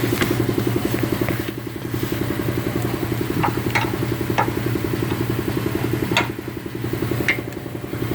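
A motor running steadily in the background with an even, pulsing drone, and several sharp metallic clinks of hand tools, a few seconds apart.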